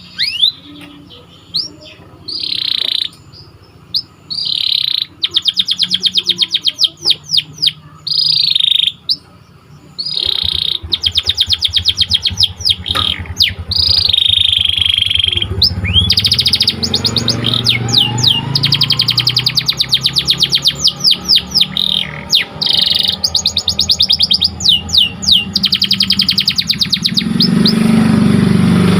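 Domestic canary singing: fast rolling trills and quick down-sweeping notes, in short bursts with pauses at first, then almost unbroken song from about ten seconds in.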